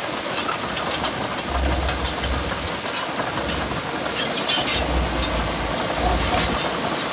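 Bulldozer at work: diesel engine running with a low rumble that swells several times, and the steel tracks clanking and clattering throughout.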